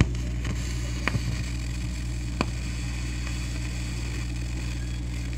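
Steady electrical hum and hiss of the recording in a gap between tunes, with a few faint clicks near the start, about a second in and about two and a half seconds in.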